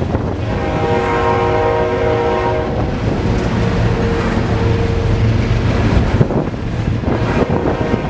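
Freight locomotive's air horn sounding a multi-note chord for about two seconds, followed by a single held tone for about two more seconds, over the low rumble of the passing train and wind on the microphone.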